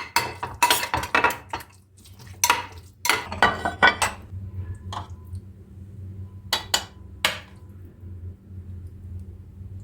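Metal kitchen utensils clinking and scraping against cookware, with a steady low hum underneath. A quick run of knocks comes in the first second and a half and a cluster around three to four seconds in, then a few single clinks.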